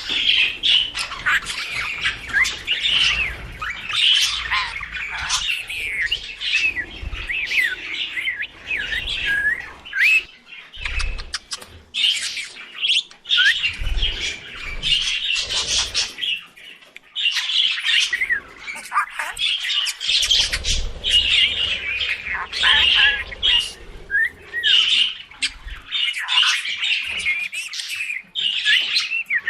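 Budgerigars chirping and warbling: a continuous chatter of quick, high chirps and gliding whistles with brief pauses.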